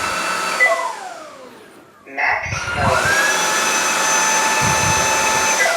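Proscenic WashVac F20 cordless wet-dry floor cleaner's motor running with a steady whine. It spins down about half a second in, starts up again about two and a half seconds in, and spins down once more near the end.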